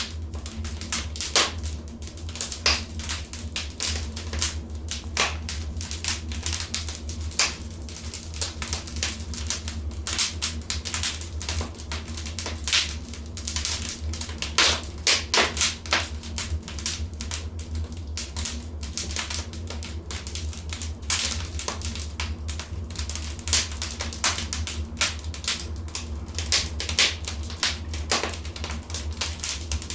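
Wood fire crackling in a fireplace: a continuous, irregular run of sharp pops and snaps over a steady low rumble.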